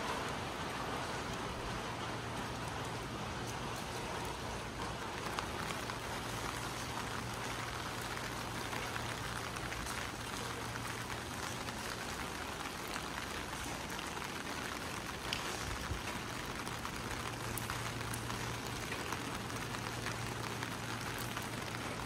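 Steady rain falling on hard surfaces, with many small scattered drip ticks, and a low steady hum underneath that fades for a few seconds midway.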